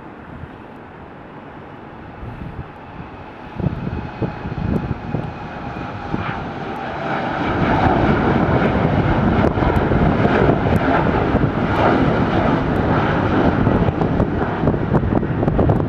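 Airliner engines growing louder as the aircraft nears, climbing from about four seconds in and holding at a loud, steady rumble with a faint whine from about eight seconds on.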